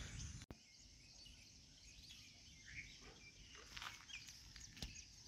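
Faint outdoor background with a few faint, short bird chirps. A louder background cuts off abruptly about half a second in.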